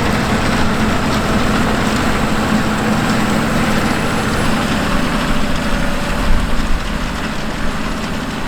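Fendt 939 Vario tractor's six-cylinder diesel engine running steadily while working a field, its low hum easing a little in the second half.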